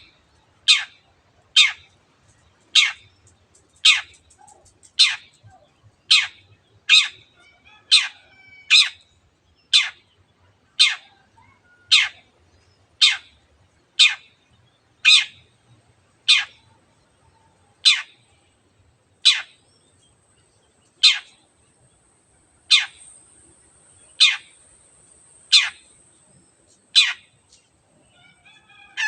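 Long-tailed shrike (cendet) giving a long series of harsh single 'teot' calls, each a quick downward sweep. The calls come about one a second at first and space out to nearly two seconds apart toward the end.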